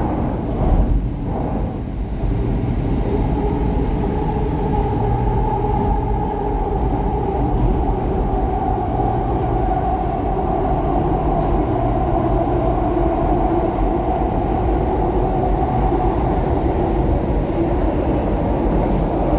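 SEPTA Market-Frankford Line subway car running between stations, heard from inside the car: a steady rumble of wheels on rail under a steady motor whine, with a few knocks in the first couple of seconds.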